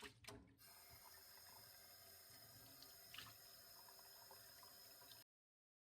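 Very faint steady running-water hiss, after a few light clicks at the start; it cuts off abruptly about five seconds in.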